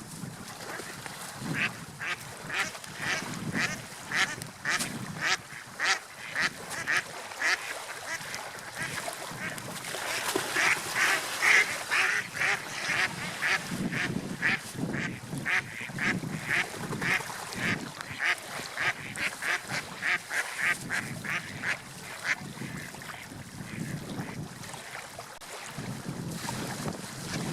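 Seagulls calling in a long run of short, repeated cries, two or three a second, loudest about halfway through and fading out near the end, over the low, swelling wash of sea waves.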